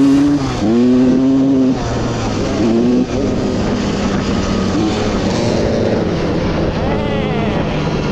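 Dirt bike engine accelerating hard through the gears, its pitch climbing and then dropping at each shift about half a second, a second and three seconds in. It then runs at a steadier speed, with a brief rise and fall in pitch near seven seconds.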